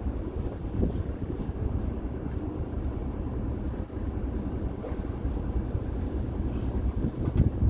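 Low, uneven rumble aboard a gillnet fishing boat: the boat running with wind buffeting the microphone, and a couple of louder knocks near the end.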